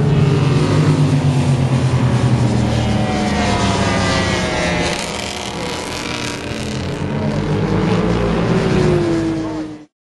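Racing motorcycle engine running hard on a circuit, its note rising and falling with the throttle and falling away near the end, over a haze of wind and road noise. The sound cuts off suddenly just before the end.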